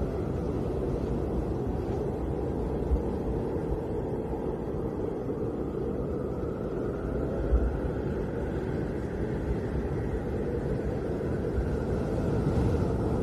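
Snowstorm wind howling: a steady deep rumble with a hollow whistling tone that slowly rises and falls, and two brief low gusts along the way.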